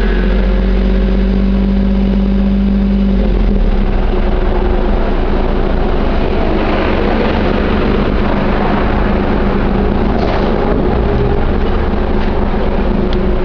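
Exhaust of a Suzuki Wagon R's 660 cc three-cylinder engine through a Fujitsubo aftermarket muffler, heard from outside the car. It runs steadily at a raised speed for about the first three seconds, then settles to a lower, idle-like note.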